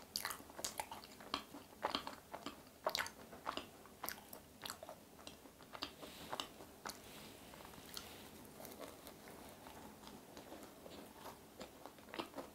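Close-up chewing of a thick cream-filled macaron: small crunches and moist mouth clicks, frequent in the first half and sparser and softer later.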